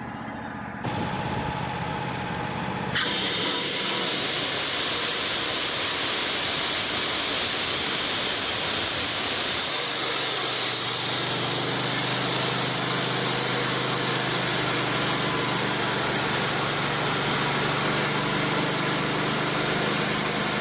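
Wood-Mizer LT35 portable sawmill running: engine noise that turns into a loud, steady hiss about three seconds in, with a low, even hum added from about halfway through.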